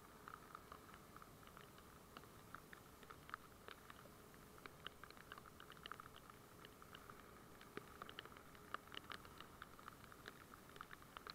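Faint, irregular patter of raindrops tapping on the camera's waterproof housing, many small taps coming unevenly and bunching up about eight to nine seconds in, over a faint steady hum heard through the sealed case.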